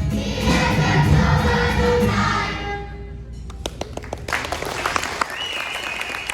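Choir singing with accompaniment, the song fading out about two and a half seconds in. After a brief hush, the audience starts clapping, a few sharp claps at first and then more, with a held high tone joining about five seconds in.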